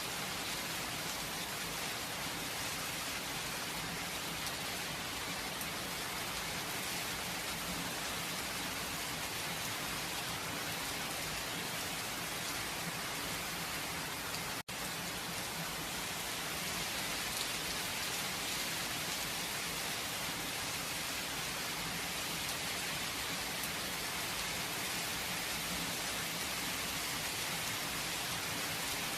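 Steady rain falling, an even hiss of many drops, with no thunder. The sound cuts out for a split second about halfway through.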